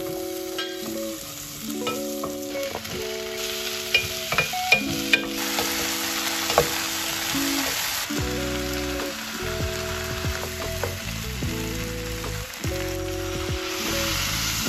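Chopped vegetables sizzling as they sauté in a pot and are stirred with a wooden spoon, with a few light clicks of the spoon about four to five seconds in. Soft background music plays over it.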